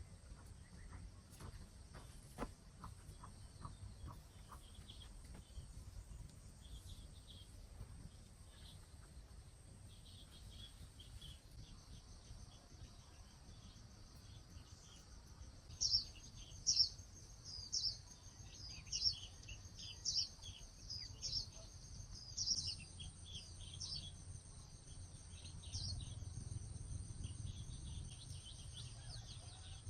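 Forest ambience: a steady, high-pitched insect drone throughout. A songbird chirps repeatedly in quick, loud notes in the second half. A low rumble rises near the end.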